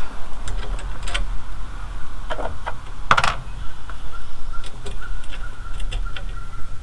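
Scattered sharp clicks and clinks of metal hardware and wheel hoe parts being handled during assembly, the loudest about three seconds in, over a steady low rumble.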